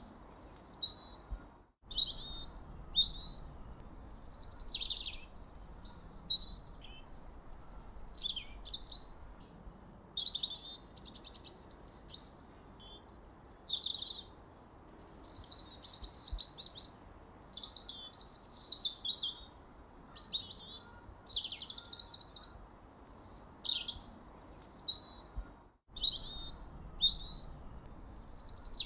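Birds chirping and singing, many short varied calls and trills overlapping, over a faint steady background hiss. The sound cuts out for an instant twice.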